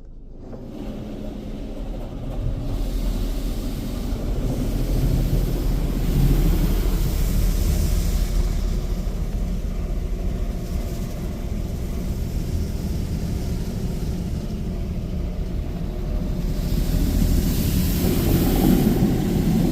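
Laserwash 360+ touchless car wash spraying water over the car, heard from inside the cabin: a steady pump rumble under hissing, drumming spray. It builds over the first two or three seconds and swells again near the end.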